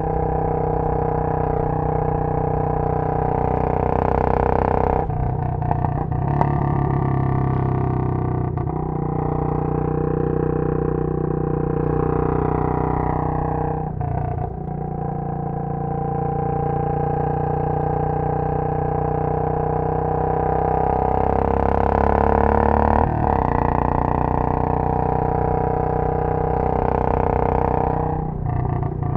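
Royal Enfield Bullet 500's air-cooled single-cylinder engine under way through a Punjab long bottle silencer, with a loud low exhaust beat. The note climbs under throttle and breaks off sharply about four times, at gear changes or when the throttle is rolled off.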